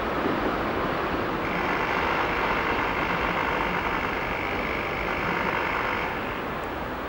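A train of passenger coaches rolling over station pointwork, with a steady high-pitched hiss that starts about one and a half seconds in and cuts off suddenly about six seconds in.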